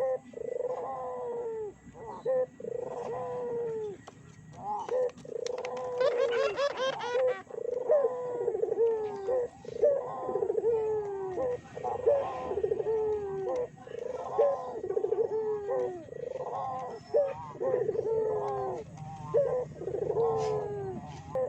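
Puter doves (ringneck doves) cooing, a dense, unbroken run of repeated falling coo notes. Around six seconds in, a brief, high, rapidly fluttering call sounds over the coos.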